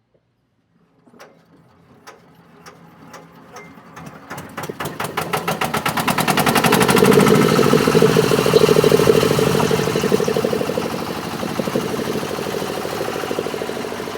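10 HP Kirloskar diesel engine on a concrete mixer starting up. Slow, separate firing beats about twice a second pick up speed over a few seconds into a fast, steady running beat, which is loudest a few seconds later and then eases slightly.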